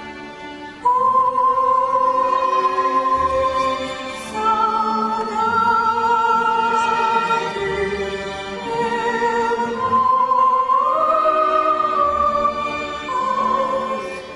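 Slow song with long held notes sung with vibrato over string orchestra accompaniment. The voice comes in strongly about a second in and moves between sustained pitches.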